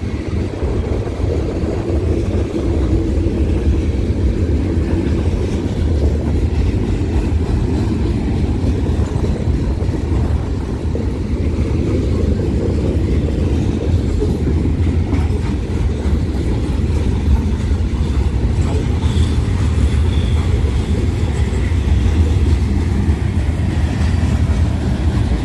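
Train rolling past with a steady, continuous rumble of railroad cars on the track.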